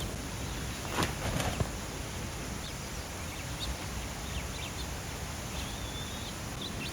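Steady outdoor background noise with faint, high, short bird chirps scattered through it and a couple of light knocks about a second in.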